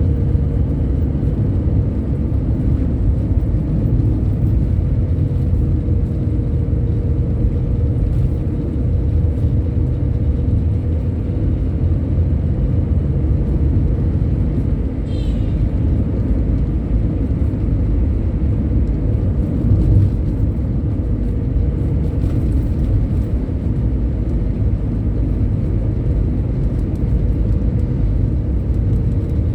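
Steady low rumble of a bus on the move, engine and road noise, with a faint steady whine above it.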